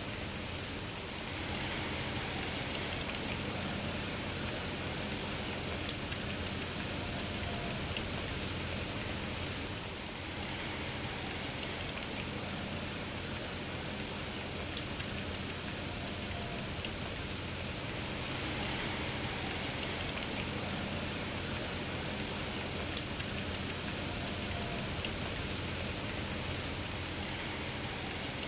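Steady rain falling, its hiss slowly swelling and easing, with single sharp drop strikes close by now and then, three of them louder, spaced about eight to nine seconds apart.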